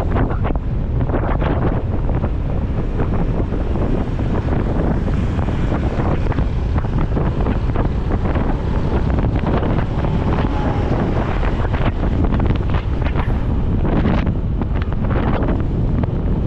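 Wind from riding a motorcycle buffeting the microphone, a steady loud rush with irregular flutters throughout.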